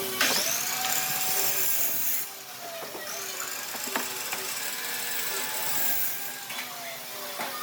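A high-speed power tool working wood: its motor spins up to a high whine just after the start and stops about two seconds in. It spins up again about three seconds in and keeps running.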